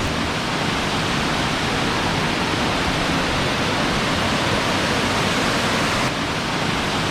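Large waterfall, water plunging steeply from a height: a steady, loud rush of falling water that dips slightly about six seconds in.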